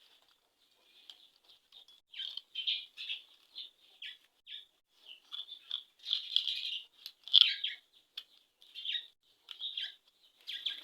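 Small birds chirping on and off in short bursts, with a few light clicks among them.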